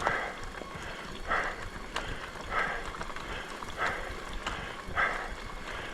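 A person breathing hard, about one loud breath every second and a quarter, out of breath from pedalling a mountain bike.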